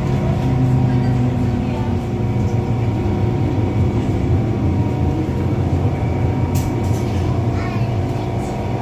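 MTR Disneyland Resort Line M-Train running: a steady rumble with several steady humming tones from the train's equipment, and a few sharp clicks about six and a half to seven seconds in.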